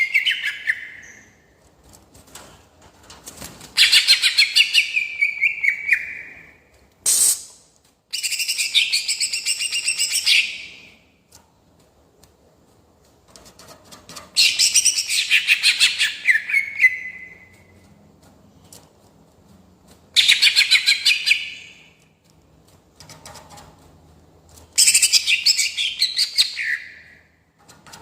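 Greater green leafbird (cucak ijo) in full song, giving bursts of rapid, rolling trills. There are about six phrases a few seconds apart, several ending in a falling slur.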